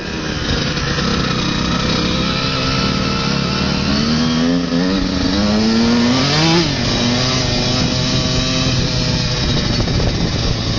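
Motocross motorcycle engine running under throttle, its pitch climbing in a rising rev from about four seconds in and dropping sharply just before seven seconds.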